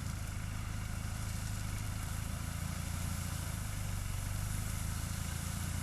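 Off-road SUV engine running steadily at low revs, a constant low hum with no rise or fall.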